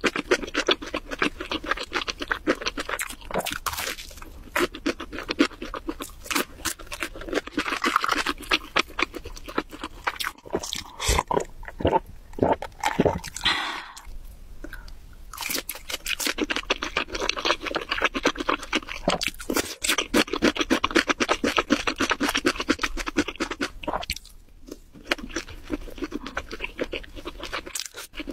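Close-miked eating sounds: a person chewing food, with dense, quick, irregular crackles and mouth smacks, broken by a few short lulls.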